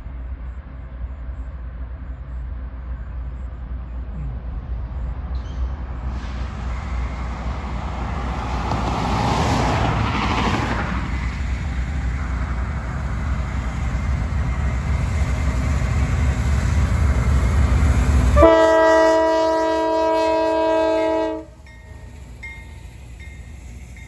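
A low rumble builds and swells, then a diesel locomotive's air horn sounds one steady chord of several tones for about three seconds, cutting off abruptly.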